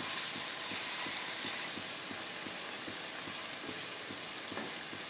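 Pointed gourd frying down in spiced oil in a karai: a steady sizzle, with light taps and scrapes of a wooden spatula stirring it.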